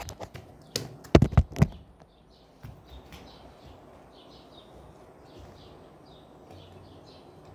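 A few sharp knocks in the first two seconds, then birds chirping faintly and repeatedly over a steady outdoor background hum.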